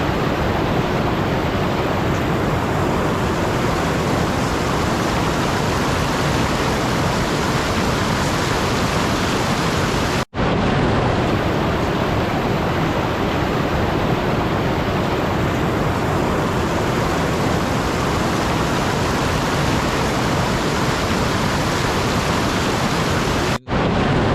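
Steady, loud rushing noise, even across all pitches like static or heavy rain, with no tone or rhythm in it. It cuts out abruptly for a split second twice, about ten seconds in and near the end.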